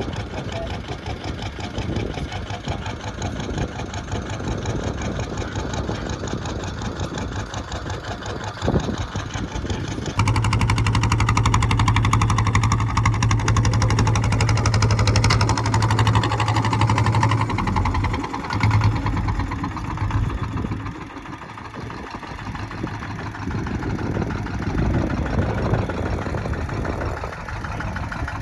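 Kubota ZT155 tractor's single-cylinder diesel engine running. It gets suddenly louder about ten seconds in and holds there for several seconds, then eases back down.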